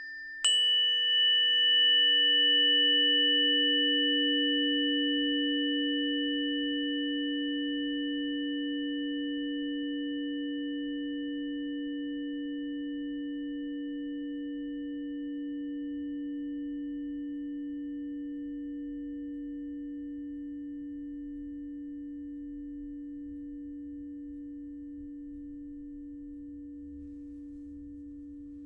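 A struck sound-healing instrument ringing out: a light tap, then a firmer strike about half a second in, leaving a pure, low sustained tone with fainter higher overtones that slowly fades.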